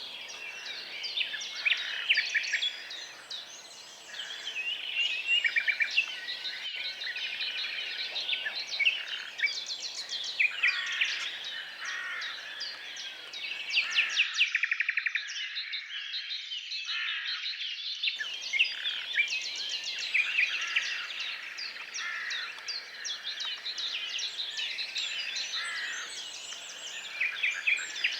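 Several songbirds singing at once: a dense chorus of overlapping chirps, rapid trills and whistled phrases.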